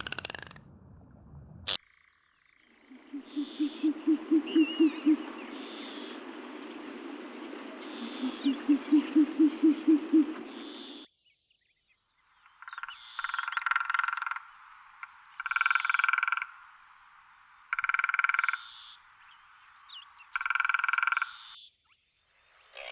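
Frogs croaking: two trains of about ten low, pulsed croaks over a background chorus. These are followed by four separate, higher calls of about a second each, roughly two seconds apart.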